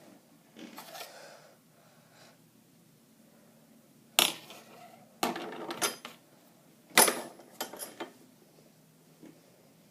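Metal parts clinking and rattling in several short bursts, the loudest sharp clanks about four and seven seconds in, as a drill and its bit are handled.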